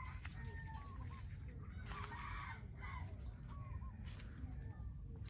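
Birds calling: short chirping notes repeated every second or so, over a low steady rumble.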